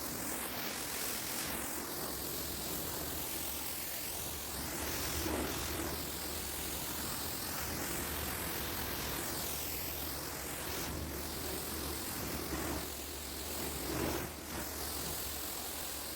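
Pressure washer spraying: a steady hiss of the water jet over a low motor hum, its tone sweeping up and down again and again as the wand moves.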